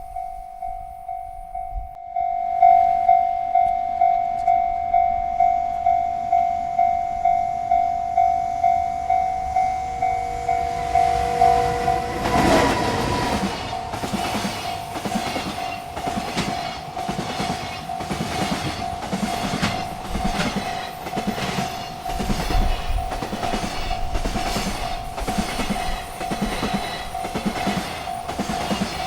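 Railroad crossing bell starts ringing about two seconds in, about two strikes a second. About ten seconds later a freight train reaches the crossing and its cars roll past, wheels clicking rhythmically over the rail joints, with the bell still ringing underneath.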